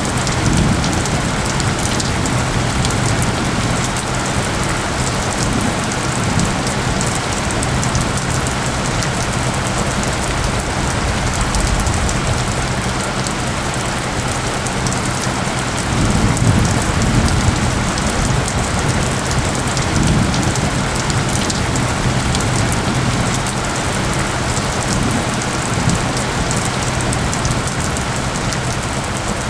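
Steady rain falling, an even hiss of many drops, with a low steady tone underneath from the track's isochronic tones. A low rumble swells briefly about halfway through.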